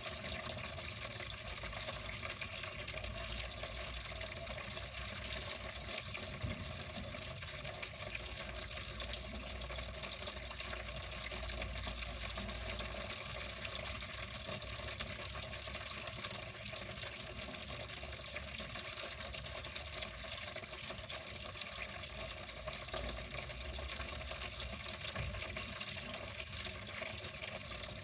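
Water flowing steadily and without a break.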